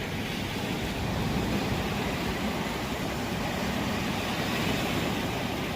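Steady rushing noise of surf and wind on the microphone, with no single event standing out.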